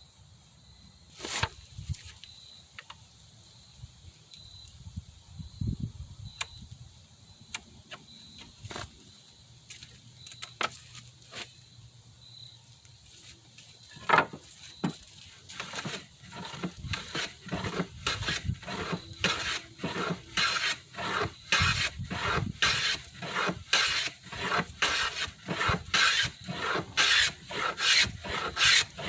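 A few scattered knocks and clicks, then from about halfway in a hand plane taking repeated strokes along two wooden rails clamped together in a vise, about two strokes a second and growing louder, bringing the two rails down to the same level.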